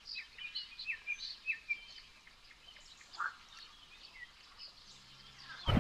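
Birds chirping: a quick run of short, high calls in the first two seconds and one lower call about three seconds in, over a quiet background. A sudden louder rush of noise cuts in at the very end.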